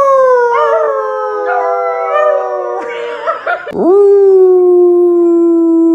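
Dog howling in long, drawn-out calls, prompted to "say mama": a first howl slowly falling in pitch, then, after a short break, a second, lower, steady howl starting a little before four seconds in.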